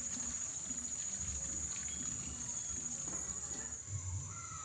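Chorus of night insects, likely crickets, shrilling steadily at one high pitch, with faint scattered ticks and taps underneath.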